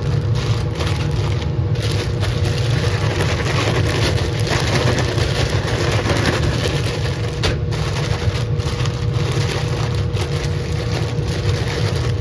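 Laminar flow hood fan running steadily: a low roar with a faint steady hum above it.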